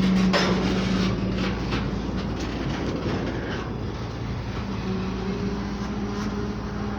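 Train rolling slowly past, its wheels clicking repeatedly over rail joints, with a steady low hum that fades and returns; the train is slowing to a stop.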